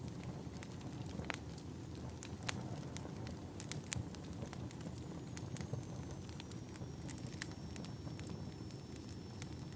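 Wood fire burning in a fireplace: a low, steady rumble of flames with irregular sharp crackles and pops from the logs. A faint thin high whistle runs through the second half.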